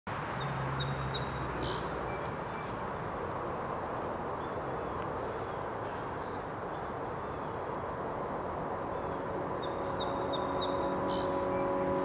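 Outdoor dawn ambience: a steady low rumble of background noise with small birds chirping in quick series of short high notes, once near the start and again near the end. A sustained musical tone fades in over the last few seconds.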